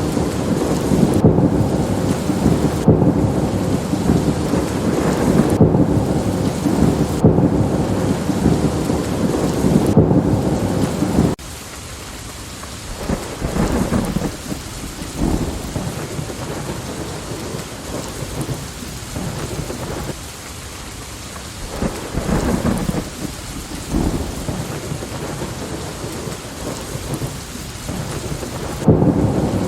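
Steady rain with rolling thunder. A long, loud thunder rumble cuts off suddenly about a third of the way in, leaving rain with fainter crackling rumbles that come and go. A loud rumble returns near the end.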